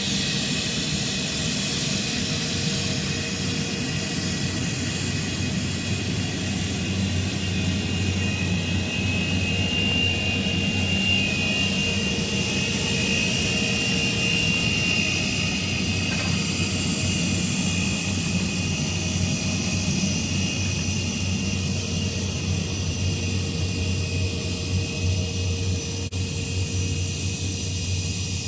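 Jet airliner's engines running close by: a steady rumble with a high whine that grows strongest about halfway through.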